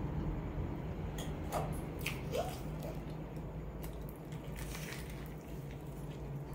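A person eating fried chicken close to the microphone: wet chewing with scattered short crisp clicks as she bites into a drumstick, over a low steady hum.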